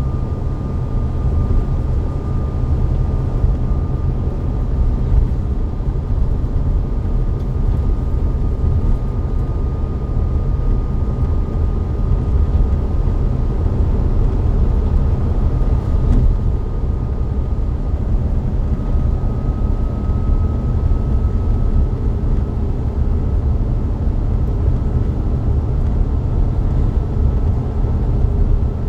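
Volvo B9TL double-decker bus with a Volvo D9B-310 diesel engine and Voith DIWA864.5 automatic gearbox, running steadily: a deep, even rumble under a thin, steady high whine that rises slightly about two-thirds of the way through.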